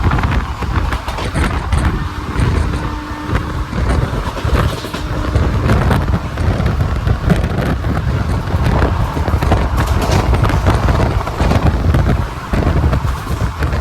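Passenger train running along the track: a loud, continuous rumble of the coach and wheels, with many short clicks and knocks throughout.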